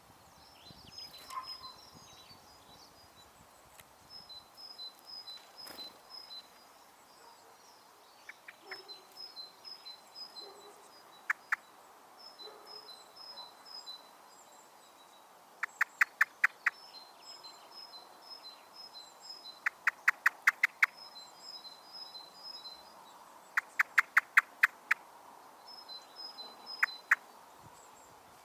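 Garden songbird repeating a high two-note phrase in short runs, with quick runs of loud, sharp clicks close by at a bird feeder.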